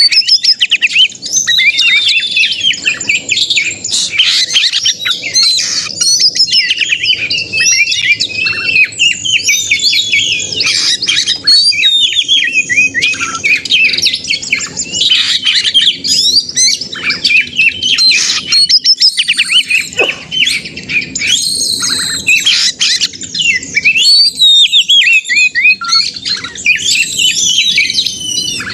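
Oriental magpie-robin singing without pause in agitated, fighting-mode song: a dense, rapid stream of varied whistles, trills and harsh chattering notes.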